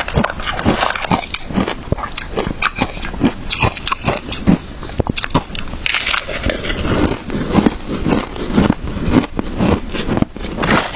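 Biting and chewing crunchy frozen shaved ice, close to the microphone: a dense run of irregular crunches and cracks, with a sharper, hissier crunch about six seconds in.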